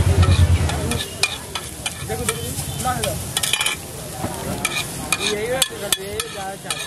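Egg masala frying in mustard oil in a pan, sizzling steadily while a utensil stirs and scrapes it, with many sharp clicks of metal against the pan. A low rumble is heard in the first second.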